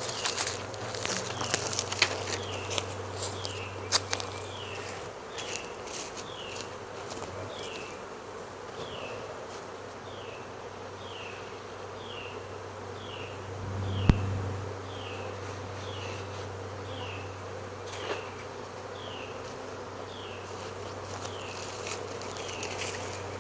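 Honey bee swarm buzzing: a steady low hum of many bees. Sharp clicks come in the first few seconds and one sharp knock about halfway through, while a short high falling chirp repeats a little more than once a second.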